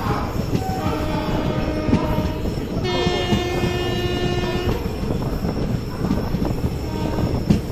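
Passenger train rolling along a station platform, wheels clattering and rumbling on the rails, with a train horn held for about two seconds in the middle and a sharp clank near the end.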